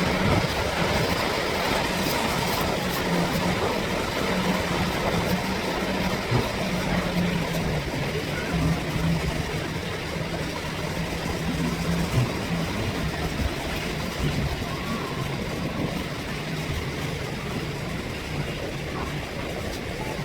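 Steady rush of wind and surf at a sandy beach, with a low engine hum over it that fades out about two-thirds of the way through.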